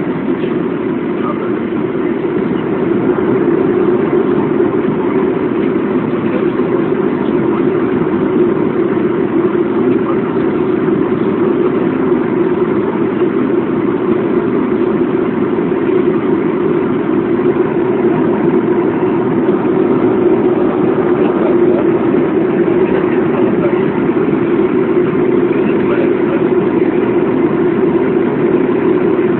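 Steady drone of a Boeing airliner's jet engines and airflow heard from inside the passenger cabin, even and unbroken, strongest in the low-mid range.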